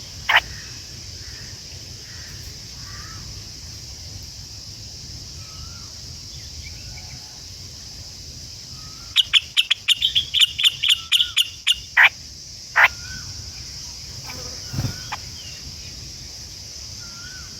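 Birds calling: a rapid run of loud, sharp calls lasting about three seconds, followed by two single calls. Faint short whistles recur throughout, over a steady high-pitched hiss.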